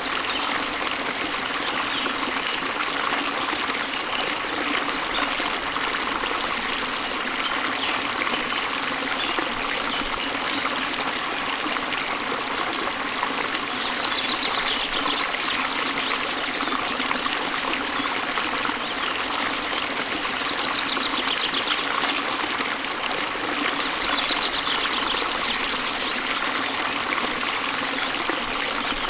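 Waterfall water rushing and splashing, a steady, even noise, with a few faint rapid bird trills now and then in the second half.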